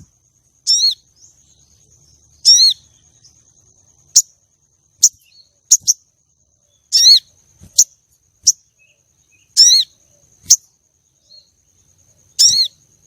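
Female sogon bird calling: short high chirps about once a second, alternating curved, layered notes with sharp single clicks, played as a lure call to bring a male sogon into breeding song. A faint steady high whine runs underneath.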